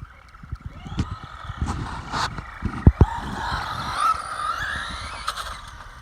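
Castle Creations brushless motor of a Traxxas Rustler RC truck on a 2-cell LiPo, whining as its pitch rises and falls with the throttle. Two heavy low thumps about three seconds in.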